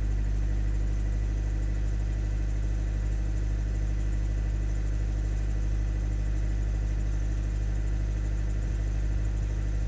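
Hyundai Tucson 1.7 CRDi four-cylinder turbodiesel engine idling steadily, with the ticking noise whose cause the owner does not know.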